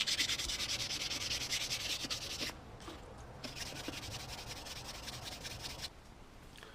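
Sandpaper rubbed by hand over a worn Honda Si wheel rim in quick, even back-and-forth strokes, pausing briefly near the middle and getting lighter near the end.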